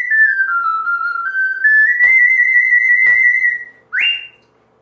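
Soprano C ocarina playing a phrase: a run of notes stepping down, then climbing back up to a long held high note, with two soft clicks partway through, ending on a short upward-slurred note.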